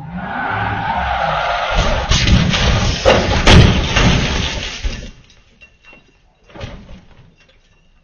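A car's tyres skidding, then a collision: a few seconds of loud crashing impacts and breaking that stop abruptly about five seconds in, followed by a single thud.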